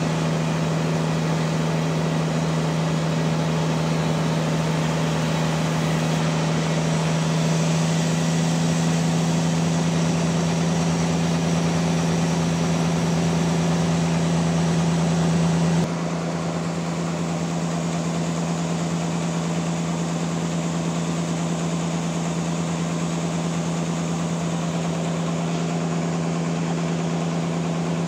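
Sawmill running steadily while sawing a very large trembesi (rain tree) log, a constant low machine tone under a hiss of cutting noise. A little past halfway the sound drops suddenly to a slightly lower level and carries on.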